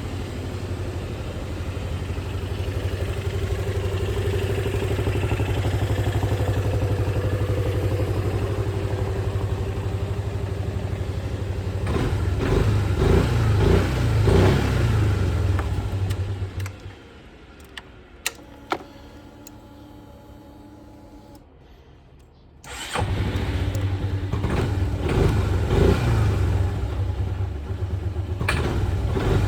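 Yamaha Grand Majesty 250 scooter's single-cylinder four-stroke engine idling, then blipped a few times. It cuts off near the middle, and after a few seconds of quiet with a couple of clicks it starts again and runs with more blips of the throttle.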